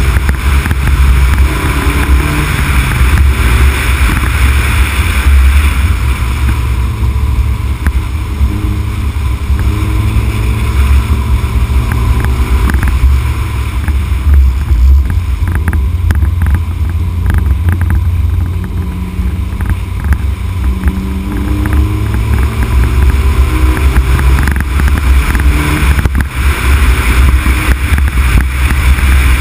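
Honda Civic Type R EK9's four-cylinder engine running with its revs rising and falling, under heavy low wind buffeting on an outside-mounted camera microphone, with tyre and road noise.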